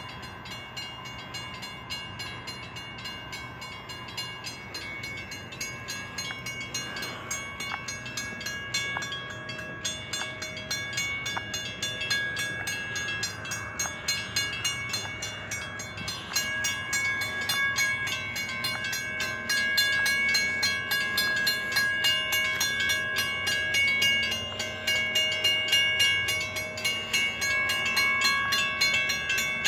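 A Connecticut Southern freight train approaching a grade crossing, with a chord of steady warning tones that grows louder.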